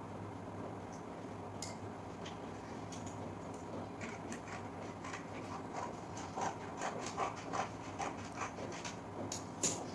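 An irregular run of small clicks and taps over a steady low hum, sparse at first and more frequent from about halfway through.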